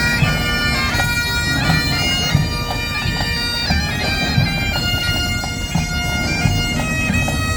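Highland pipe band playing: bagpipes sounding a melody over their steady drones.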